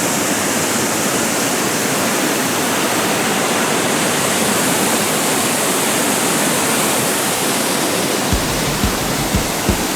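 Mountain stream water rushing in a steady, dense hiss. Several low thumps come in near the end.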